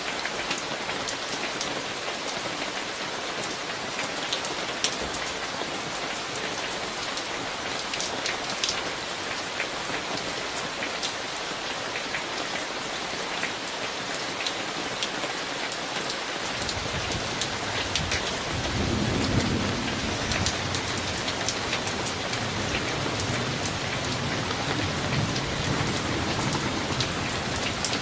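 Summer thunderstorm recorded on a phone: steady rain with the clicks of individual drops hitting a surface. A little past halfway a long low rumble of thunder rolls in, loudest a few seconds after it starts, and keeps rumbling under the rain.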